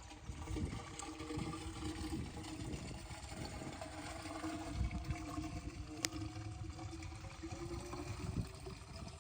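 Diesel water-pump engine running steadily at a constant speed, with an irregular low rumble underneath.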